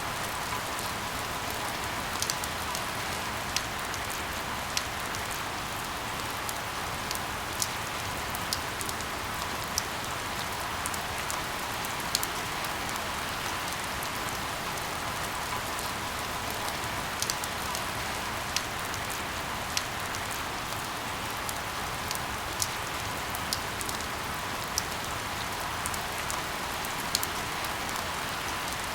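Steady rain falling, a dense even hiss with scattered sharp drips and ticks of individual drops striking a surface.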